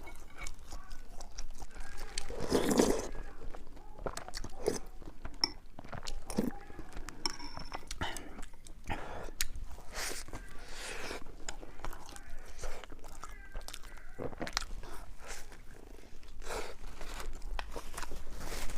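Close-miked eating: a person biting and chewing, with crunches and many short wet clicks. The loudest, longest crunch comes about two and a half seconds in.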